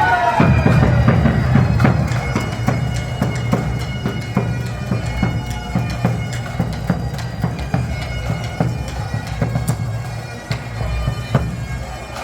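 Bagpipes playing a tune over a steady low drone.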